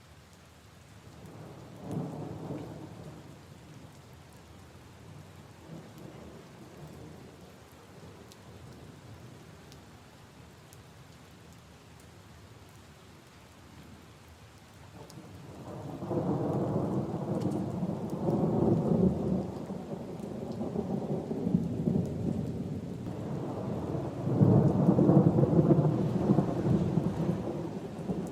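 Steady light rain with thunder: a short low rumble about two seconds in, then long, loud rolling rumbles that build from about halfway through.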